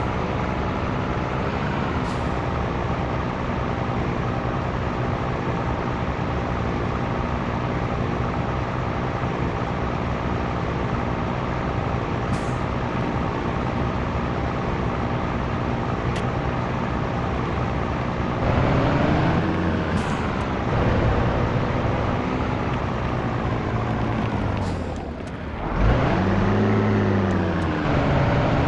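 Scania T113 truck's 11-litre straight-six diesel running steadily under way. In the last third the engine speed rises and falls several times, with a brief drop near the end followed by a rev up and back down.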